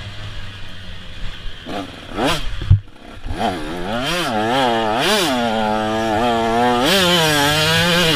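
KTM SX 125 two-stroke motocross bike engine revving up and down in quick surges, then held at high revs for the last couple of seconds. A loud thump comes just before the revving starts, a little under three seconds in.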